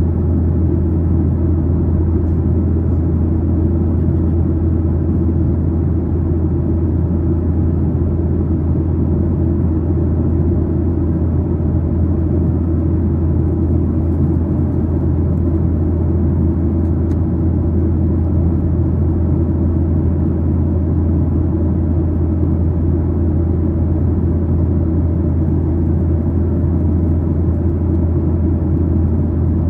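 Steady, loud cabin rumble of a Boeing 737-900ER heard from a window seat behind the wing: the drone of its CFM56-7B turbofan engines and airflow, unchanging throughout.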